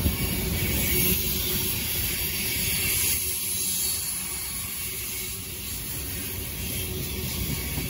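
Freight cars of a CSX train rolling past: a steady rumble and fast clatter of steel wheels on rail, with a high hiss over it.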